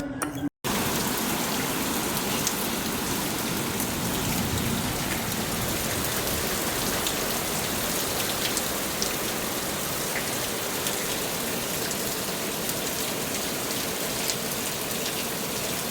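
Steady rain falling: an even hiss with a scattering of faint drop ticks. It begins after a brief cut to silence about half a second in.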